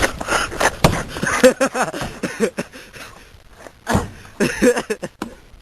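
Wordless yelling voices over a jumble of knocks and thumps. A rough rush of noise thins out about a second and a half in; the calls come in two short spells, the second near the end.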